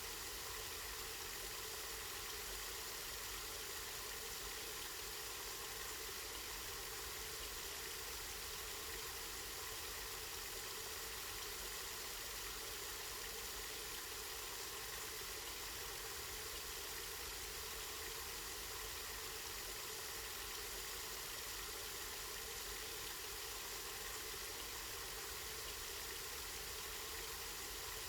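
Spring water running steadily, a soft even rush that does not change.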